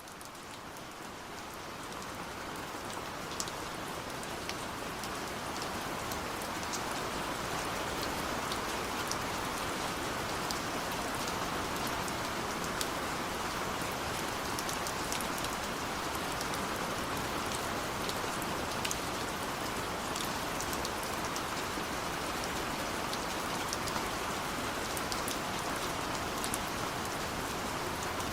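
Steady rain falling, with scattered sharp ticks of individual drops. It fades in over the first few seconds, then holds steady.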